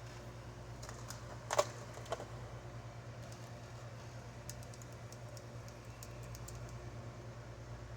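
A few sharp clicks and taps, the loudest about one and a half seconds in, then a run of faint light ticks later on, over a steady low hum.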